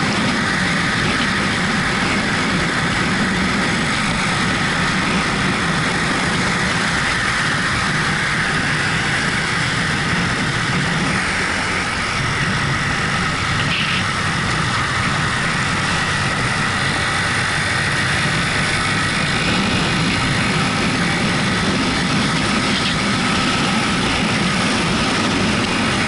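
Yamaha MT-125 motorcycle with its single-cylinder four-stroke engine, running steadily while riding, mixed with continuous wind and road noise at an even level.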